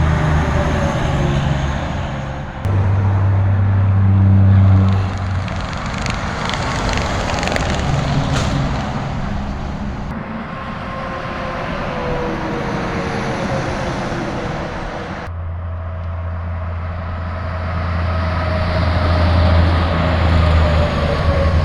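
Heavy trucks' diesel engines running with a strong low hum, with tyre and road noise as they pass. The sound changes abruptly three times, about 3, 10 and 15 seconds in.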